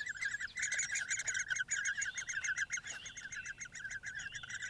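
Great spotted woodpecker nestlings begging from the nest: a fast, unbroken series of short, high chirps, about eight to ten a second, calling for the parents to bring food.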